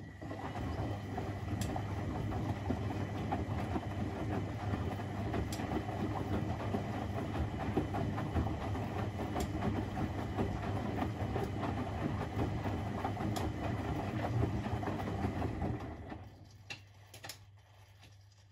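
Zanussi-built Privileg 3001 S washing machine's geared motor running the drum with a steady low hum and a faint tick about every four seconds. It starts suddenly with a click, stops about sixteen seconds in, and a couple of clicks follow in the pause.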